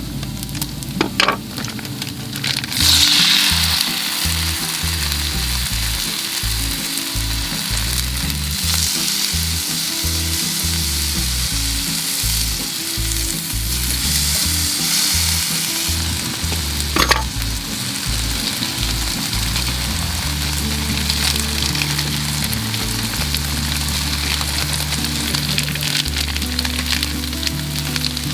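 Chop-steak ingredients sizzling as they fry in a pan, stirred now and then, with a sharp utensil click about a second in and another about seventeen seconds in. The sizzle swells loudest about three seconds in.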